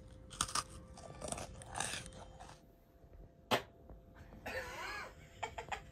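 Crunching and chewing on a peanut-butter sandwich cookie in the first two seconds, then a sharp click about three and a half seconds in, the loudest sound, followed by a short vocal sound and a few light knocks.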